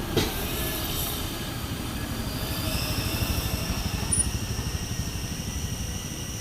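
Loaded diesel truck moving slowly, its engine making a low, even rumble. A steady high-pitched whine joins about three seconds in.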